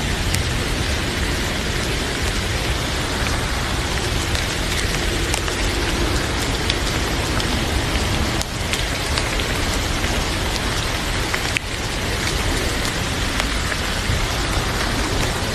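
Heavy rain falling steadily, an even hiss, with scattered sharp crackles from a wood fire in a fireplace.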